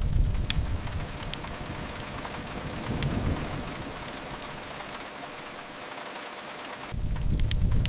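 Steady rain with a fire crackling in scattered sharp pops. A deep low rumble sits under it at the start, fades within a second or so, and comes back near the end.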